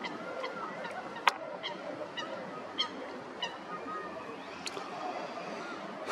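A bird honking in a string of short calls, about every half second, with a single sharp click about a second in.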